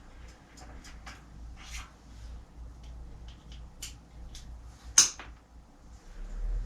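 Hand tools and bicycle parts being handled during bike assembly: scattered light clicks and taps, with one sharp knock about five seconds in.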